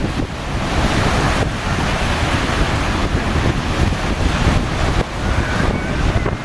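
Strong wind buffeting the microphone over the steady rush of big waves and spray around a ferry. The low gusty rumble of the wind is the loudest part.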